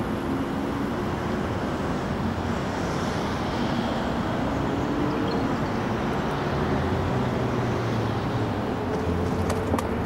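A-series electric train pulling away: a steady rumble with a faint motor whine that rises slowly in pitch, and a few clicks near the end.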